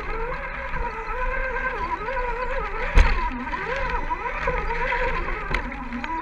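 Electric motor and gear drivetrain of an RC scale crawler truck whining, the pitch rising and falling with the throttle as it climbs, with a single knock about three seconds in.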